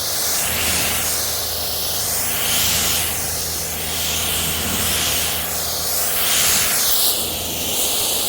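Kränzle pressure washer spraying water onto a truck's windshield: a steady loud hiss of the jet that sweeps up and down in pitch as the spray moves over the glass, with the washer's motor humming underneath.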